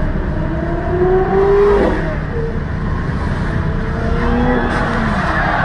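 Sports car engine revving hard as the car accelerates, its pitch climbing, dropping at a gear change about two seconds in, then climbing again, over a heavy rumble.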